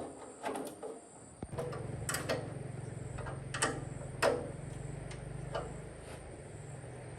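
A few sharp metallic clicks and knocks, then about one and a half seconds in a small electric motor starts and runs with a steady low hum, with a few more clicks over it: the restored mini milling machine being switched on and run.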